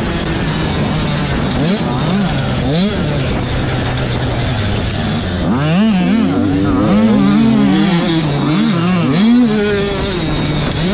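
Several two-stroke 85cc motocross bikes racing, their engines revving up and down over and over as the riders work the throttle. The rising and falling revs are busiest in the second half.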